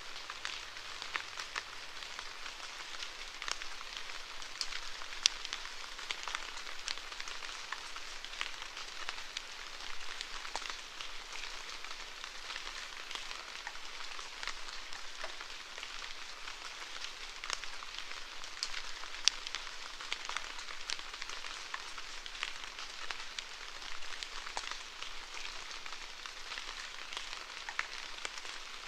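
Steady rainfall, a constant hiss of rain with many individual drops pattering and ticking close by, a couple of them sharper and louder than the rest.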